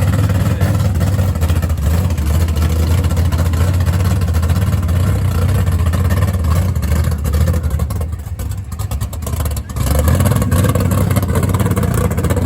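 Drag racing vehicle's engine running with a loud, steady, deep sound that drops briefly about eight seconds in, then comes back.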